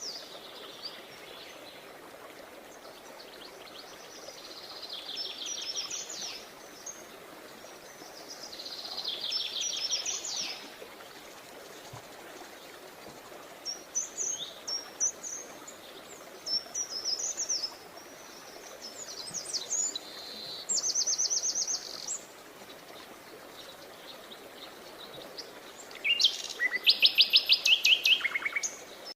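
Songbirds singing in short high-pitched phrases every few seconds over a faint steady background. Near the end comes a louder, fast, evenly repeated trill.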